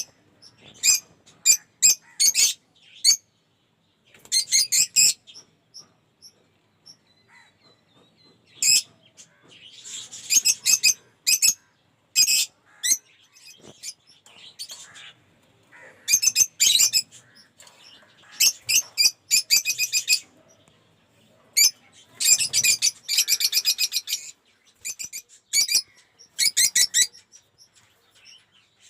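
Lovebirds chirping: clusters of short, shrill calls in quick runs, broken by brief pauses.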